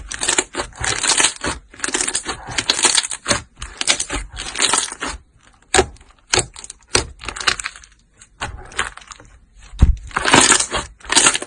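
Slime being squeezed and worked by hand, giving irregular bursts of crunchy crackling with short pauses between them, and a low thump near the end.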